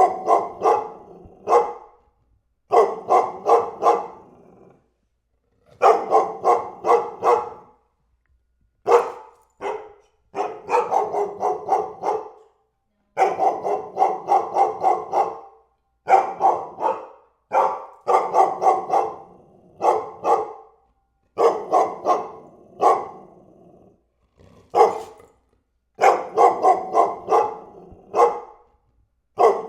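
A dog barking in rapid bursts of several barks each, about a dozen bursts with short silent pauses between them.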